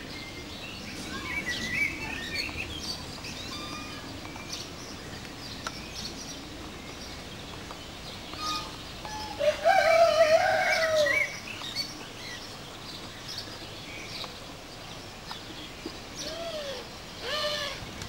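Birds chirping and twittering all around, with short high calls scattered throughout and one louder, lower call about ten seconds in.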